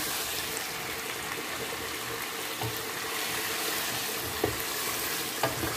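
Chicken pieces frying in oil and marinade in a pot, a steady sizzle, stirred with a wooden spoon that knocks lightly against the pot a few times.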